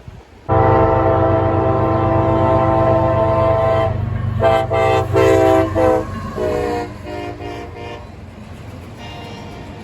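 Diesel locomotive's multi-chime air horn sounding a salute: one long blast, then several short blasts, then a lower, fading chord as the locomotive passes. A deep engine rumble runs under the first half.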